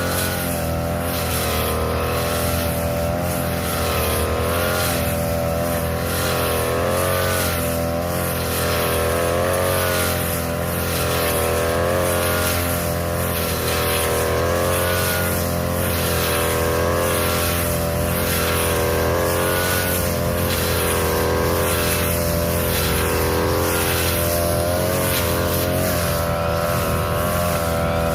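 Petrol brush cutter running at high speed while cutting overgrown grass. The engine pitch wavers up and down in a loose rhythm as the blade swings through the grass, with a faint repeated swish over it.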